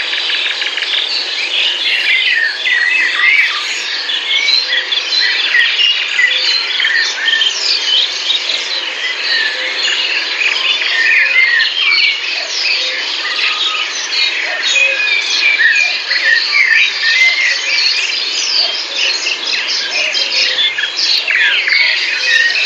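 A chorus of many small songbirds chirping and singing at once, dense overlapping calls and trills throughout.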